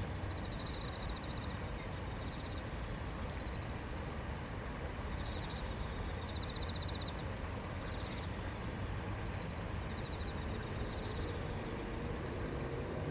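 River water babbling in a steady, unbroken rush. A short, rapid high trill sounds about four times over it.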